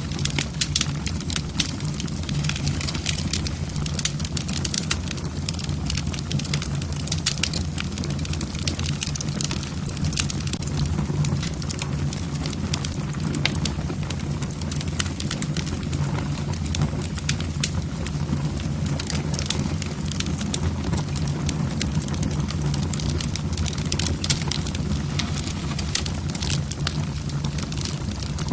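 Logs burning in a fireplace, crackling and popping continually over a steady low rumble.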